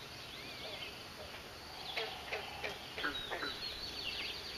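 Woodland bird calls: chirps and fast high trills throughout, with a run of quick falling call notes around the middle.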